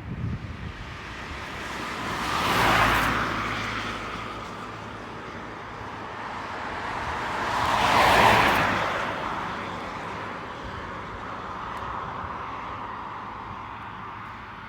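Two vehicles passing one after another, each swelling up and fading away over a few seconds, the second one louder, over a steady low hum.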